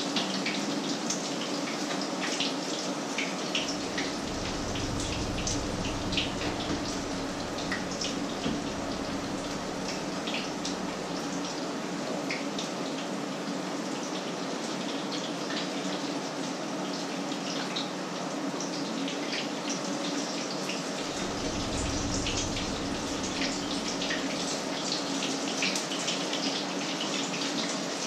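Patties frying in a pan, sizzling with a steady hiss and many small scattered crackles.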